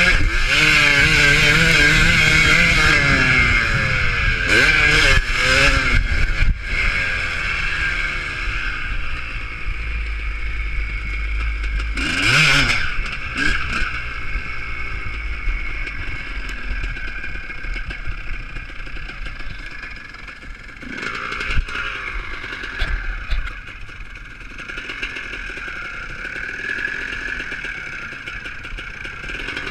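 Motocross bikes racing, several engines revving up and down through the gears at once. One bike passes close about twelve seconds in and another around twenty-one seconds. The engine noise is fainter and more even in the last part.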